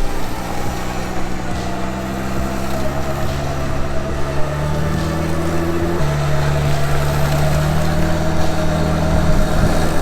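Jeep engine running steadily under load, with a steady higher whine above it; the engine note drops a step about six seconds in.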